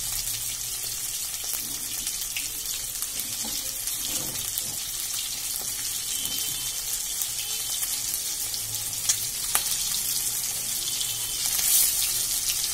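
Boiled eggs frying in hot oil in a metal kadai, the oil sizzling with a steady hiss as the eggs brown. A couple of small clicks come about two-thirds of the way through, and a spatula moves in the pan near the end.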